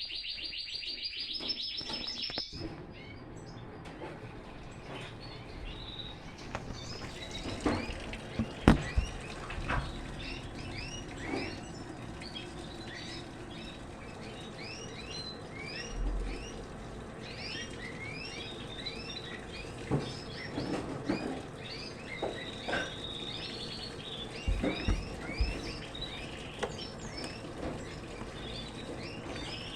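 Small birds chirping, many quick downward-sweeping chirps, over a faint steady hiss. A high steady whistling tone plays for the first two seconds or so, and a few sharp knocks sound, the loudest about nine seconds in.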